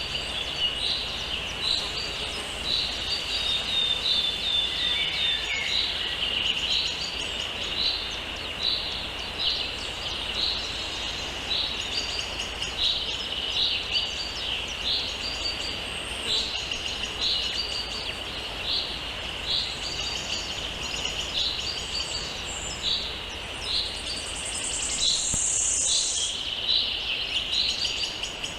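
Small songbird chirping over and over, short high chirps about three every two seconds, over a steady high-pitched drone.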